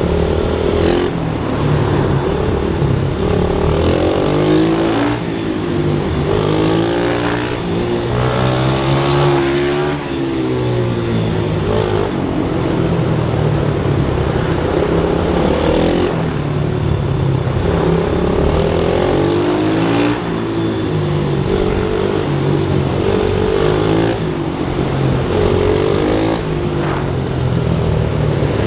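Pit bike engines revving on a track, the pitch climbing and dropping every few seconds as the throttle is opened and shut, at times with more than one engine heard at once.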